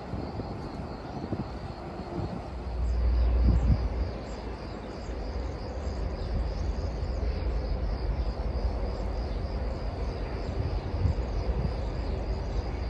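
Distant train rumbling along the line as a locomotive approaches from far off, a steady low rumble. Wind buffets the microphone, most strongly about three seconds in.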